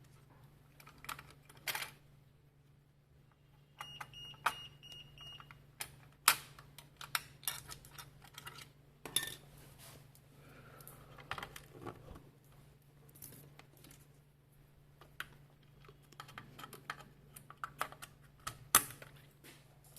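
Scattered clicks and light knocks of computer hardware being handled as a CPU is fitted onto a motherboard. A brief high electronic beep sounds from about four seconds in for a second and a half, under a low steady hum.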